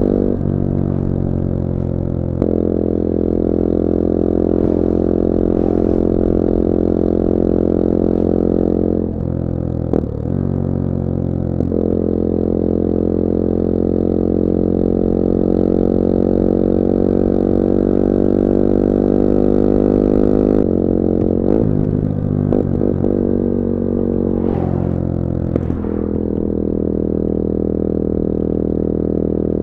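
2021 Bullit Hero 250's CF Moto 250cc four-stroke engine running under way on the road, with a steady note that steps in pitch several times: around 9 to 12 seconds in, and in a run of quick changes between about 21 and 26 seconds.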